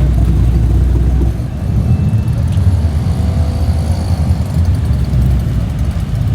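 Car engines running close by with a loud low rumble that eases about a second in. A fainter engine note glides up and down around the middle.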